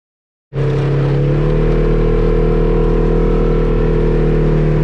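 Quad bike engine running at a steady speed, cutting in abruptly about half a second in.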